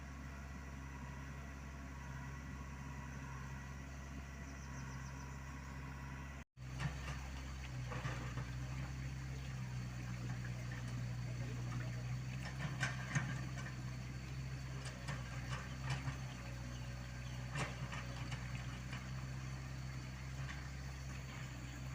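Komatsu PC75UU mini excavator's diesel engine running steadily. After a short break about six and a half seconds in, it runs a little louder, with scattered sharp knocks and clanks as the machine works.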